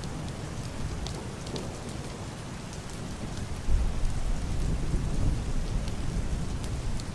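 Heavy rain hitting a wooden roof and window glass, a steady hiss with scattered sharp drop ticks. About halfway through, a low, muffled roll of thunder swells in and rumbles on.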